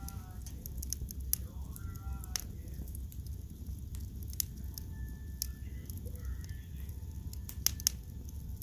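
Wood fire in a fireplace crackling, with scattered sharp pops of burning wood: a loud one about a second in, another midway, and two close together near the end, over a low steady rumble.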